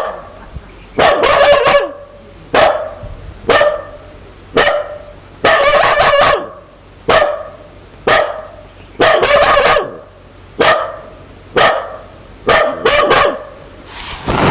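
A dog barking repeatedly, about one bark a second, some barks short and some drawn out. This is the aggressive barking of a dog that wants to bite.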